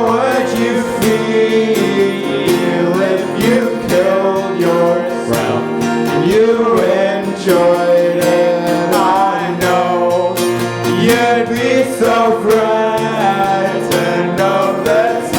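Acoustic guitar playing a song, with a voice singing a gliding melody over it.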